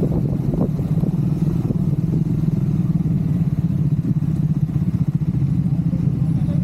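Triumph Scrambler 400 X's single-cylinder engine running steadily, its note holding an even pitch, with a few light knocks right at the start.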